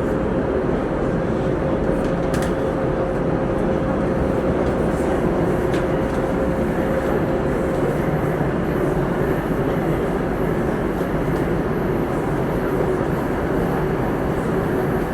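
Downtown Line MRT train running at speed through its tunnel, heard from inside the carriage: a steady rumble with a faint whine that fades out about halfway through.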